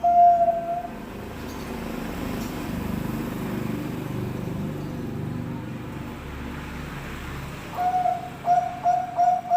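Bangkok-type perkutut (zebra dove) cooing in quick repeated notes, which break off about a second in. A low rumbling noise swells and fades for several seconds before the cooing starts again near the end.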